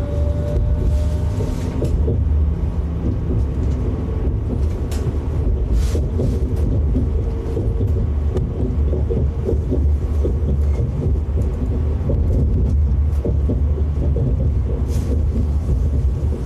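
Passenger train running at speed, a steady low rumble with scattered clicks and knocks from the running gear.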